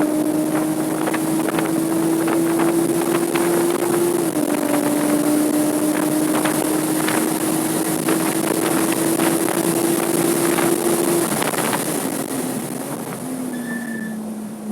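Porsche 987.2 Cayman S flat-six engine pulling hard, its pitch slowly climbing, then dropping suddenly with an upshift about four seconds in and climbing again. Near the end the throttle comes off and the engine note falls to a lower tone. Wind noise throughout.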